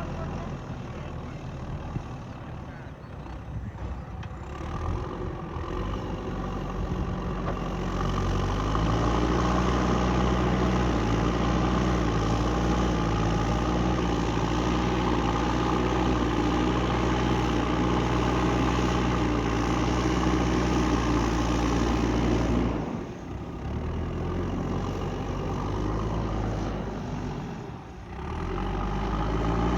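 JCB 3DX backhoe loader's diesel engine running steadily, revving up about a quarter of the way in and held at working revs, with two brief drops in revs near the end.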